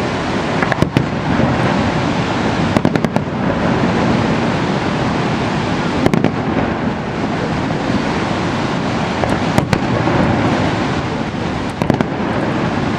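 Fireworks going off: sharp bangs and crackles scattered irregularly, several in quick clusters, over a steady loud rushing noise.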